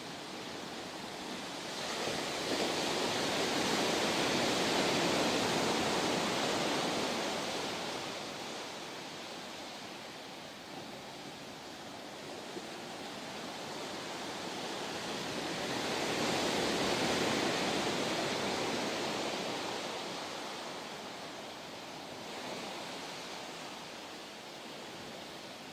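Ocean surf washing ashore, a steady rush that swells twice and ebbs between.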